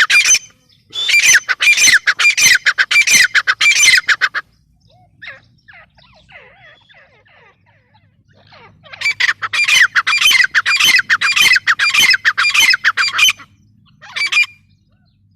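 Gray francolin calling: loud bouts of rapid, harsh, repeated notes, two long runs of about four seconds each with a short burst near the end and fainter calls in between.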